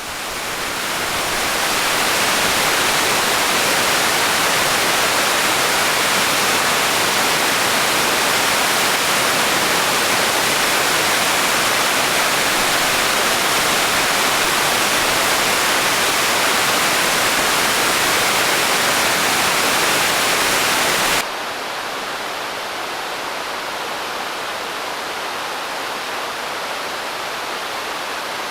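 Naena Falls, a large waterfall swollen with snowmelt, pouring with a steady, heavy rush of water. It fades in at the start, and about 21 seconds in it drops suddenly to a quieter, duller rush.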